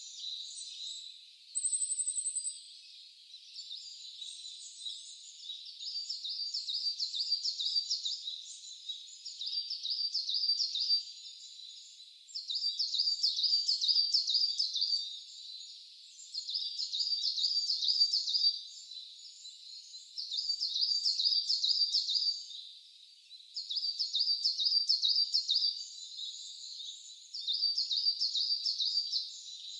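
A wild songbird singing the same short phrase of rapid high notes over and over, about every three to four seconds, with a brief thin high whistle near the start.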